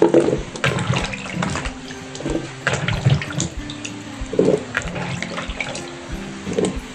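Cut raw potato pieces being tipped and dropped into a baking tray, making a run of irregular knocks and wet splashes.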